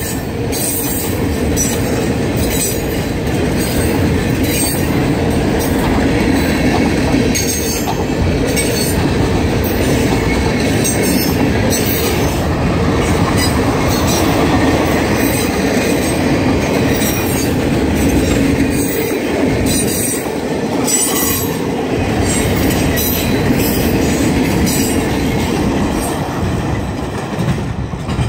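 A train rolling past, its wheels running steadily over the rails with repeated sharp, high clicks. The sound cuts off suddenly at the end.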